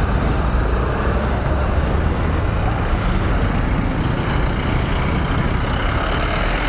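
Steady road and traffic noise heard from a moving motorcycle, with a heavy low rumble of wind on the microphone.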